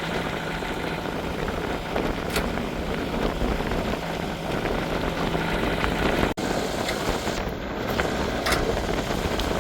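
Steady wind and water noise aboard a sailboat in choppy water, with a low steady hum under it for the first five seconds or so. The sound drops out for an instant about six seconds in.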